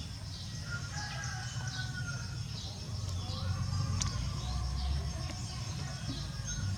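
Small birds chirping over and over, above a steady low rumble, with one sharp click about four seconds in.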